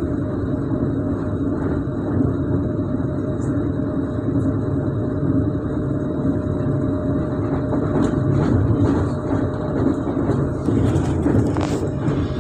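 Coupled ЭПМ and ЭПР Stadler FLIRT electric multiple units running on the rails: a steady low rumble of wheels and running gear. A few faint clicks come in near the end.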